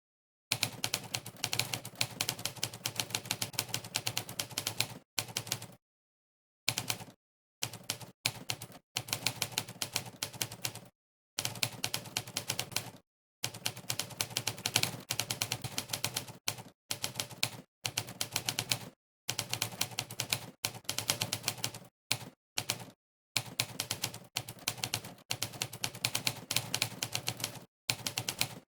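Monkeytype's typewriter keypress sound effect played on every keystroke during fast typing: quick runs of many clacks a second, broken by brief dead-silent pauses. It starts about half a second in.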